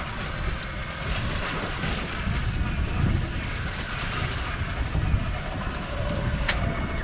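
Wind buffeting the microphone and water noise aboard a small open fishing boat at sea, with a sharp click near the end.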